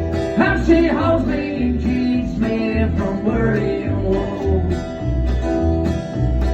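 Acoustic string band playing a bluegrass-style passage: plucked guitar chords over an even bass pulse, with a lead melody line sliding in pitch through the first few seconds.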